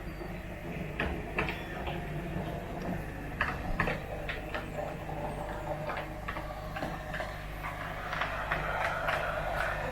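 N gauge model train running on the track, its wheels clicking irregularly over rail joints, with a steady low hum underneath.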